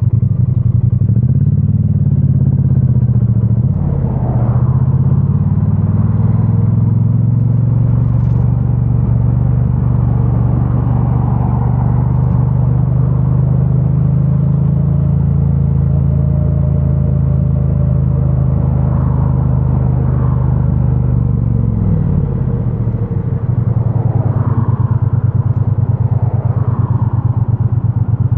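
2022 Triumph Bonneville T100's 900 cc parallel-twin engine, stock exhaust, running while riding: the revs rise and fall in the first few seconds, hold steady through the middle, then drop about 22 seconds in and stay low near the end.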